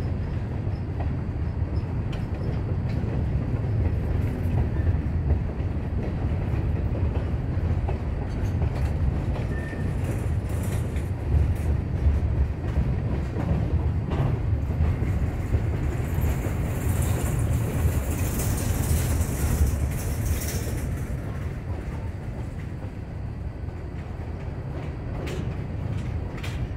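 Freight train of covered hopper cars rolling past: a steady low rumble of steel wheels on rail with scattered clicks, and a higher hiss that rises for several seconds past the middle.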